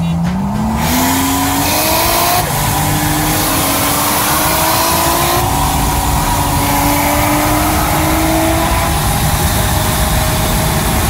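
Car engine accelerating hard through the gears at wide-open throttle. Its note climbs steadily, drops at an upshift about two and a half seconds in and again about five and a half seconds in, and climbs again each time, blending into road and wind rush near the end.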